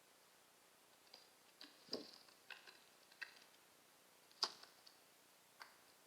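A blue jay feeding: about seven short, sharp clicks and taps against near silence, some with a brief high ring. The loudest comes about four and a half seconds in.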